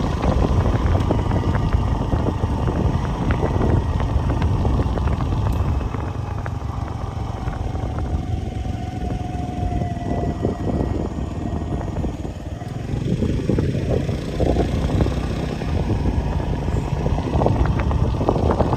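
A motor vehicle running: a steady low rumble with a faint whine that falls slowly in pitch over the first half.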